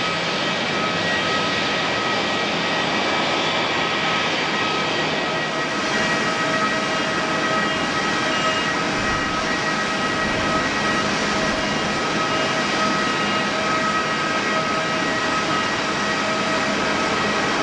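Jet airliner turbofan engines running steadily, a continuous roar with a high whistling whine from the turbines.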